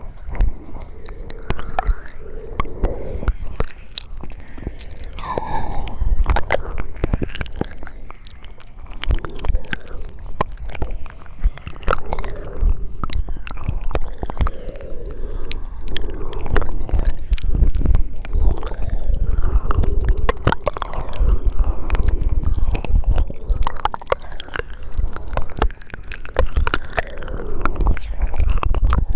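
Close-miked ASMR mouth sounds: wet smacks and clicks of lips, tongue and saliva in a dense, irregular stream.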